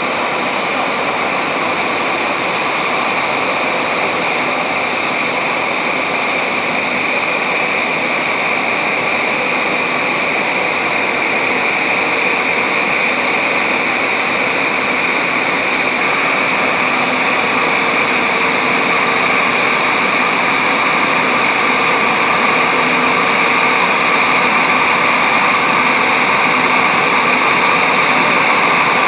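Jet aircraft engine noise: a loud, steady rushing whine that slowly grows louder.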